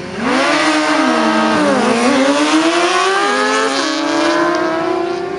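A high-revving racing engine passing at speed. It comes in suddenly and drops in pitch as it slows, then revs up again, with a sudden drop in pitch at a gear change about three seconds in, and fades near the end.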